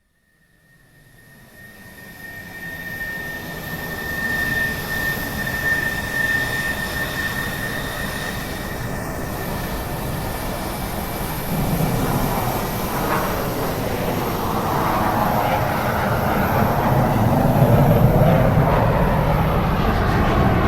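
Aircraft engine noise fading in and building steadily louder, with a steady high whine through the first half; sweeping shifts in tone later on, as of an aircraft drawing near.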